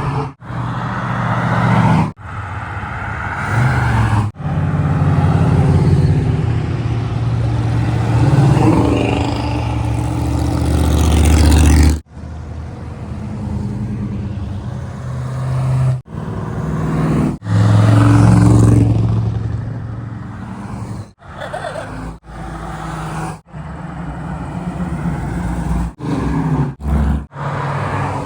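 Classic cars driving past one after another, their engines running with loud swells as each one passes, the biggest building to a peak about twelve seconds in. The sound breaks off abruptly several times between short clips.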